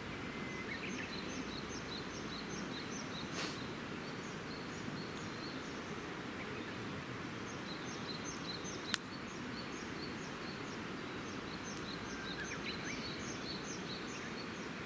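A small bird singing long runs of quick, high repeated notes over a steady low rushing noise. A campfire gives a sharp pop about three and a half seconds in and a louder, sharper one about nine seconds in.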